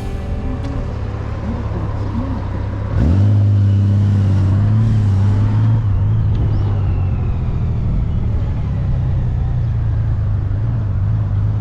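Honda Gold Wing GL1800's flat-six engine running on the road, with road and wind noise. About three seconds in, the engine note rises and gets louder as it accelerates, then holds steady.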